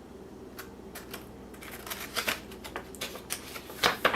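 Paper rustling and crackling as a folded instruction pamphlet is handled, with louder crackles near the end.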